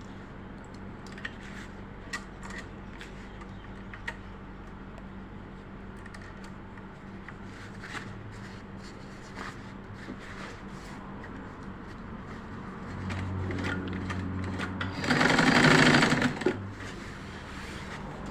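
Butterfly sewing machine: a few light clicks of handling at first, then the machine starts running about two-thirds of the way in and runs much louder and faster for a second or two near the end, stitching to test the seam after the bobbin thread tension has been set.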